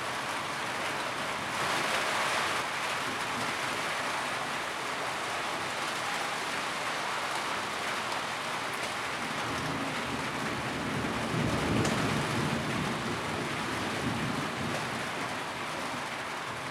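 Steady rain drumming on a tin roof, an even hiss of many drops. It brightens briefly a couple of seconds in, and a low rumble swells about ten to thirteen seconds in.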